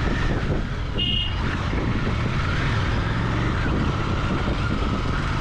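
Royal Enfield Continental GT 650's parallel-twin engine and exhaust running steadily while riding. A short horn toot sounds about a second in.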